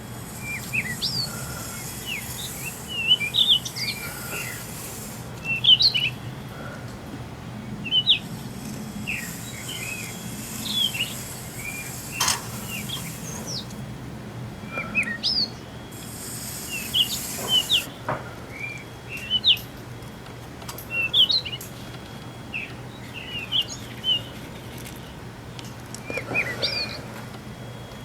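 Small birds chirping in short, quick phrases, a new phrase every second or two, over a faint steady low hum.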